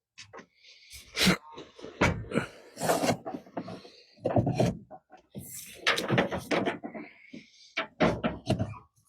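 A run of irregular knocks and clatters, several close together, with scraping or rustling noise between them.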